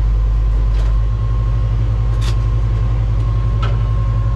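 Heavy-equipment diesel engine running at a steady speed, with a deep, even hum and a faint steady whine above it.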